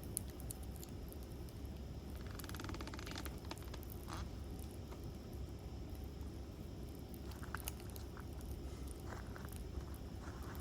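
Wood campfire burning: scattered sharp crackles and pops over a low steady rumble, with a quick run of tiny rapid crackles about two seconds in that lasts about a second.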